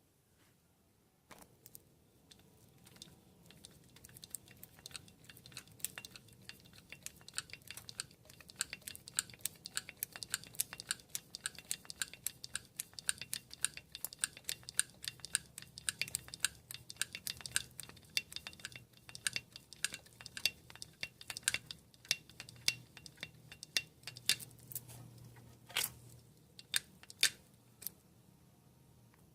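Hand grease gun being pumped on a Chevrolet truck's ball joint and steering fittings: a rapid, steady run of sharp metallic clicks, with two louder clicks near the end.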